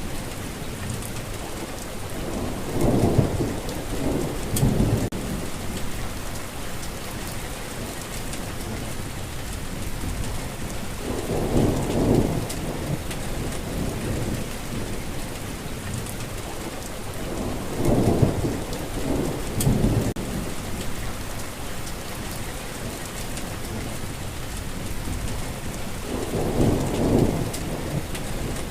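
Steady heavy rain hissing, with low thunder rumbles rolling in four times, each lasting a second or two.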